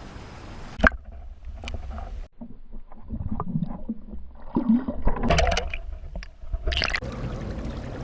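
Water sloshing and gurgling heard with the microphone underwater beside a kayak: a splash about a second in, then muffled knocks and gurgles, and another splash near the end as the microphone comes back out of the water.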